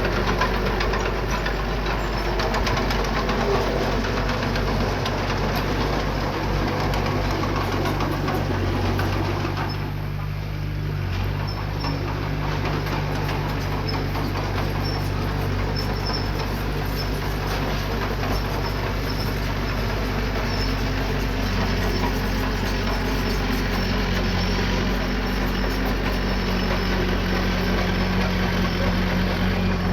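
Small bulldozer's diesel engine running steadily under work, with a brief dip in level about ten seconds in.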